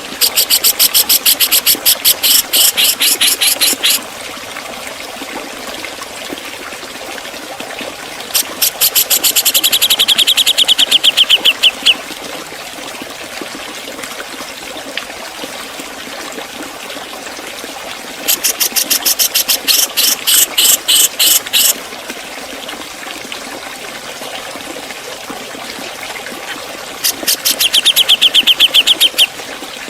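A Javan cucak jenggot (grey-cheeked bulbul) calling in four bursts of rapid, sharp, high repeated notes, each burst about three to four seconds long. These are the fast 'ngepik' chatter and rasping 'beset' phrases. A steady trickling-water hiss runs underneath.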